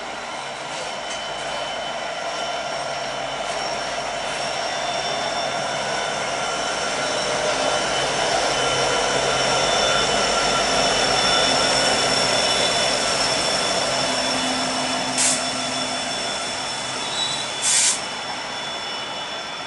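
Freight train passing, with hopper cars rolling by and a mid-train diesel-electric locomotive running. The engine grows louder as the locomotive passes about halfway through, then fades as cars follow. Two brief, sharp loud noises come near the end.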